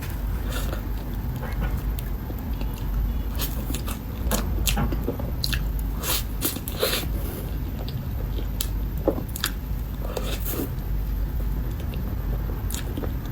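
Close-miked chewing and biting of a soft matcha mille crepe cake, with irregular wet mouth clicks and smacks.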